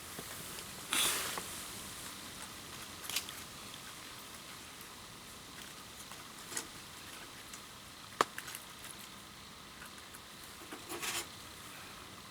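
Wood campfire burning with a steady soft hiss, broken by a few separate crackles and sharp pops, the sharpest about eight seconds in.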